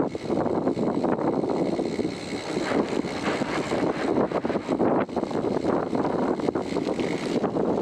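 Strong blizzard wind buffeting the microphone, a rushing, gusting rumble that rises and falls throughout.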